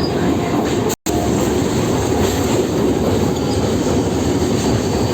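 Local passenger train running, heard from on board: a steady, dense rumble of the moving coach. About a second in, the sound cuts out completely for an instant.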